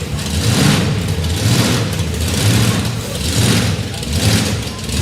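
A large engine running and revving in repeated surges, about one a second.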